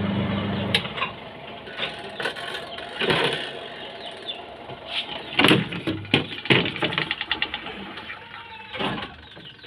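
Washing machine running on test after its rat-chewed power cable was spliced. The motor hums for about a second at the start, then clicks and knocks follow, with a quick run of ticks a little past the middle.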